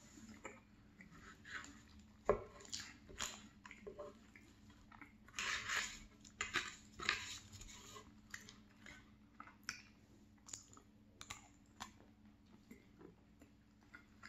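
Chewing and small mouth clicks of a person eating creamy salmon pie. There is a sharp tap a little over two seconds in, and a stretch of scraping around the middle as a fork cuts into the pie in its foil pie tin.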